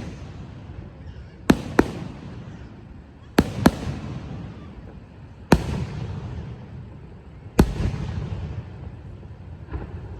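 Fireworks going off: sharp bangs about every two seconds, some in quick pairs, each trailing off in a low rumble and crackle.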